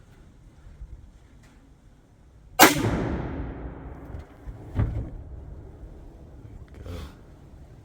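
A single shot from a Remington 700 bolt-action rifle in .308, about two and a half seconds in, with a long fading echo. Two softer knocks follow.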